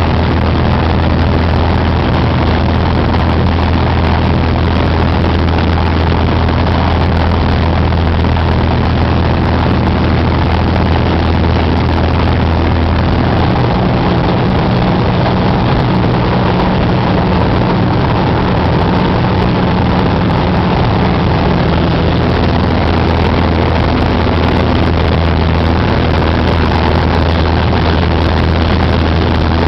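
Cessna 188 AgTruck's piston engine and propeller running steadily with a loud drone; the engine note shifts for several seconds around the middle, then settles back.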